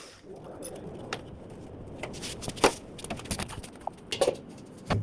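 A few short, sharp knocks and clicks over low rustling, as of tools and parts being handled in hand work.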